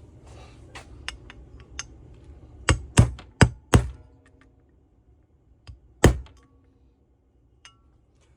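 A few light clicks, then four loud knocks in quick succession about three seconds in and one more about six seconds in: hard parts or tools being knocked and set down on a workbench.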